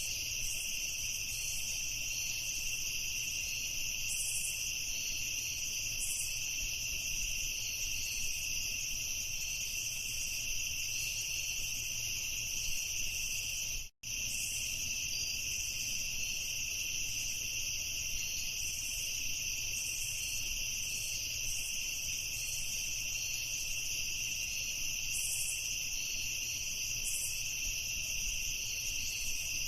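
Crickets chirping in a dense, steady night chorus of high-pitched trills. The sound cuts out for an instant about halfway through, then resumes unchanged.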